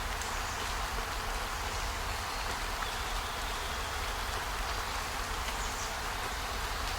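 Steady, even hiss of rain, with a low rumble underneath.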